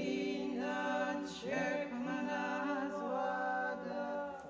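Background vocal music: voices singing long held notes without instruments, moving to a new chord every second or so.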